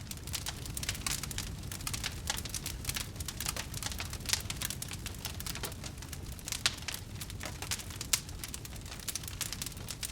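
Campfire burning: wood crackling and popping in a dense, irregular patter over a low, steady rumble of flame, with a few sharper pops, the loudest about two-thirds of the way in.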